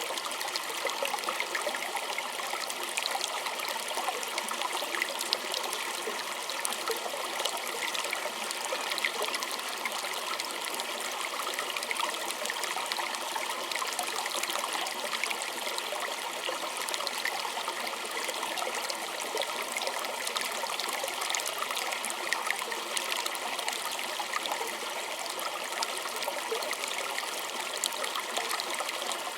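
A small stream trickling and babbling over stones, a steady bright splashing with many small gurgles and drips.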